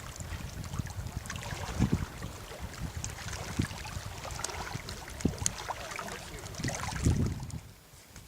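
Wind rumbling on the microphone over moving water, with scattered sharp clicks and knocks; the sound drops away sharply near the end.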